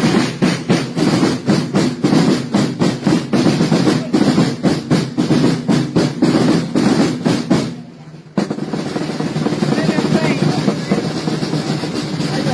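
Snare and bass drums of a festival drum corps beating a fast, rolling marching rhythm. About eight seconds in, the sound cuts abruptly to a steadier, denser din.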